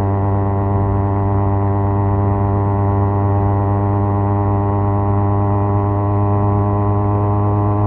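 Kawasaki Z250's parallel-twin engine breathing through an aftermarket SeaPro muffler, cruising at a steady speed: an even exhaust drone that holds nearly one pitch.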